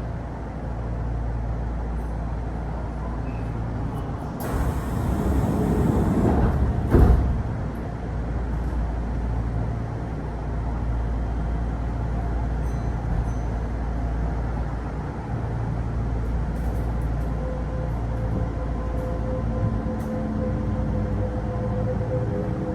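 Inside a Kintetsu Osaka Line local train: the car's steady low hum, a loud hiss of air about five seconds in that ends in a sharp thump around seven seconds, then in the last few seconds several rising motor tones as the train starts to pull away.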